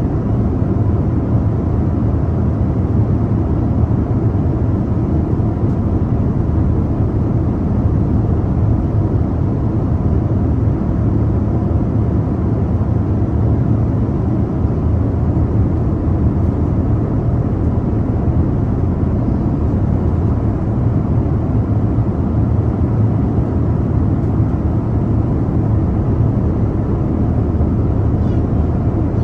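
Airliner cabin noise in flight, heard from a window seat: the engines and the air rushing past the fuselage make a constant low rumble that does not change.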